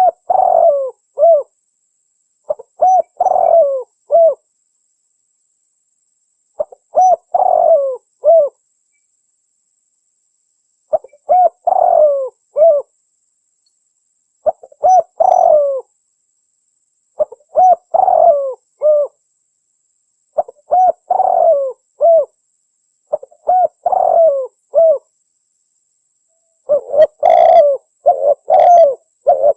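Spotted dove (tekukur) cooing: a short coo phrase repeated about ten times, every two to three seconds, the phrases coming closer together near the end. It is a recorded lure call for drawing in wild spotted doves.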